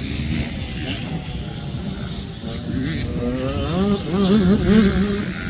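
Dirt bike engine revving, its pitch climbing and then swinging up and down several times in the second half, over a steady low engine rumble.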